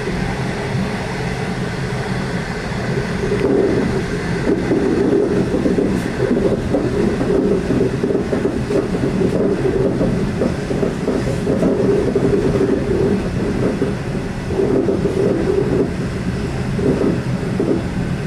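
V/Line loco-hauled passenger train running along the track, heard from on board: a steady rumble of wheels on rails. A droning hum grows louder about three and a half seconds in.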